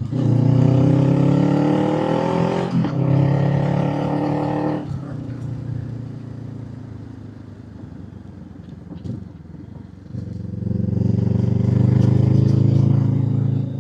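Honda 471 cc parallel-twin motorcycle engine pulling up a steep climb, rising in pitch through the first gear with a change about three seconds in, then easing off about five seconds in. It pulls hard again from about ten seconds before backing off near the end, with wind on the microphone.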